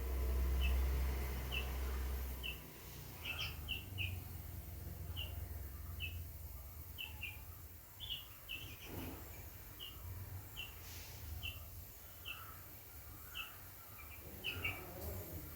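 A small bird chirping: short, high chirps repeated about once or twice a second, some in quick pairs. A low rumble, like wind on the microphone, underlies the first couple of seconds.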